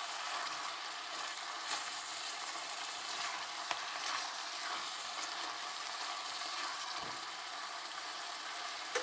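Chicken for chakhokhbili sizzling steadily in a kazan on the stove, a continuous even hiss, with a couple of light clicks.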